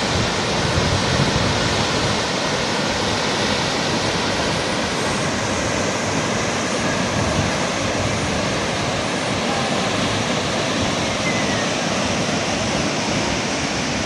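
Steady roar of Thomson's Falls, a large waterfall, falling water heard as an unbroken rush.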